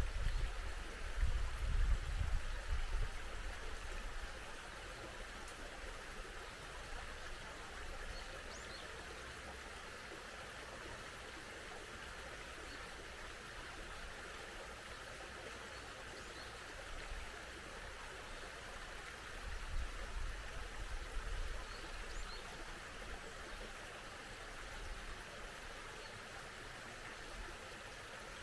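A small mountain stream flowing steadily, with a few faint, brief bird chirps above it. A low rumble comes in the first few seconds and again about two-thirds of the way through.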